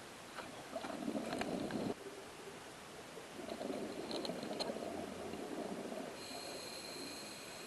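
Scuba diver's regulator underwater: two gurgling rushes of exhaled bubbles, a short one and then a longer one. Near the end a faint steady high whine comes in.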